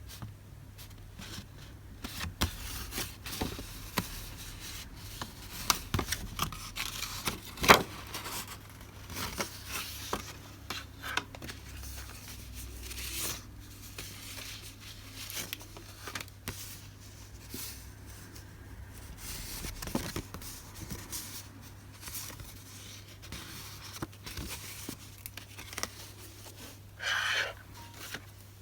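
Paper and plastic packaging being handled and opened by hand: rustling, crinkling and tearing with many scattered light taps. A sharp snap comes about eight seconds in, and a short, louder rasp comes near the end.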